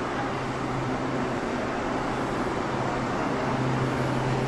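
EMU800-series electric commuter train pulling in along the platform: a steady rumble with a low hum, growing a little louder as the train draws alongside, with an echo from the enclosed underground station.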